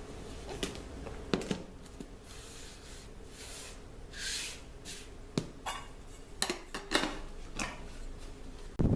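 Scattered light clicks and knocks of small objects being handled on a work surface, with a short hiss about four seconds in. A gust of wind on the microphone comes in just before the end.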